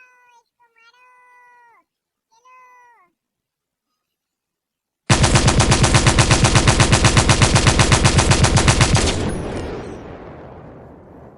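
Electronic toy sound effects: a few short meow-like calls, each falling in pitch, then, about five seconds in, a loud machine-gun rattle of about eight shots a second that starts abruptly, lasts about four seconds and dies away in a long fading echo.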